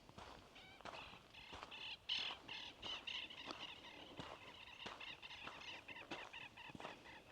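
Birds calling over and over in quick, repeated notes. The calls are loudest about two seconds in.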